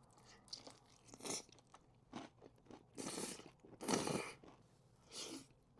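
Close-miked crunching and chewing of a breaded fried chicken tender: a run of crisp crunches about a second apart, the longest two in the middle.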